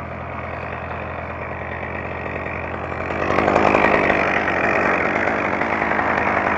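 Chainsaw running, getting louder about three seconds in.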